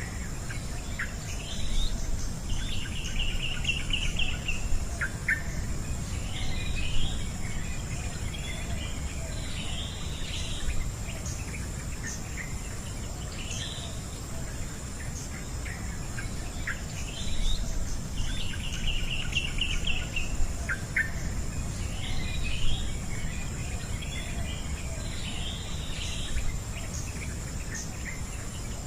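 Birds singing in short, repeated trilled phrases over a steady high-pitched insect drone and a low, steady rumble.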